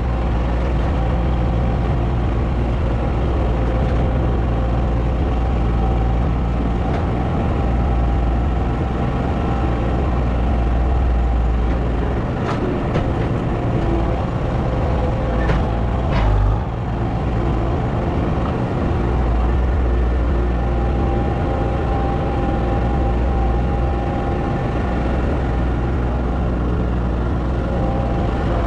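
A heavy vehicle engine running steadily with a constant low rumble, with two brief sharp sounds about 12 and 16 seconds in.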